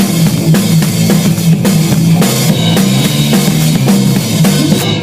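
Rock music, instrumental: a drum kit beat with a driving bass line, before the vocals come in.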